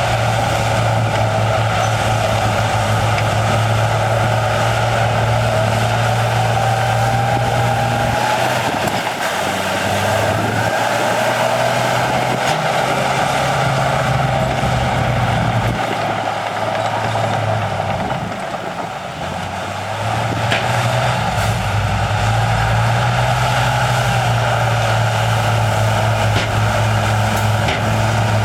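Heavy diesel earthmoving machinery running under load, its low engine note dropping away a few times and picking back up.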